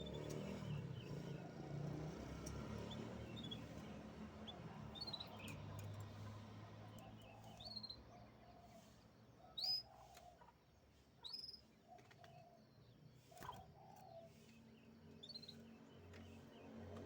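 Canary giving scattered short chirps and quick rising whistled notes, not a continuous song, with the sharpest chirps near the middle, over a faint low background hum.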